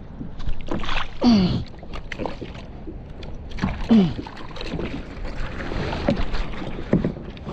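Knocks and water noise on a kayak while a barracuda is handled, with two falling groans from the angler about a second in and again about four seconds in.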